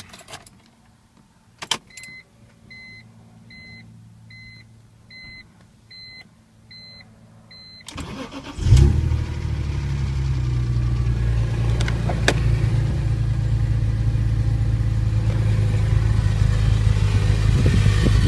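A car's dashboard chime beeps about eight times, evenly spaced. The 2002 BMW M3's straight-six is then cranked, catches with a loud flare and settles into a steady idle from cold.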